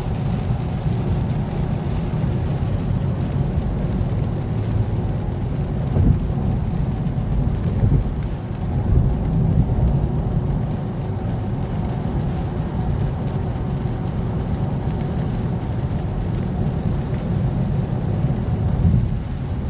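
Heavy rain falling steadily, heard under a strong, continuous low rumble.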